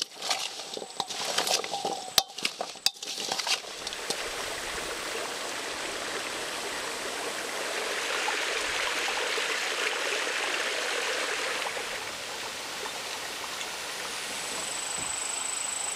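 A metal utensil clinks against the cooking pan several times, then food fries with a steady sizzle that swells for a few seconds in the middle. A thin, high, steady tone comes in near the end.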